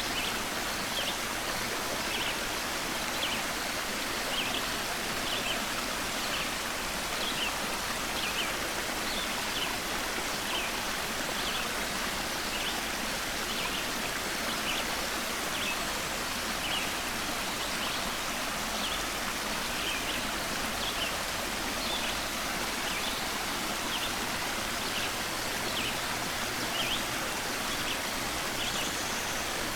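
Steady rush of flowing stream water, with a songbird's short high chirps repeated about once or twice a second over it.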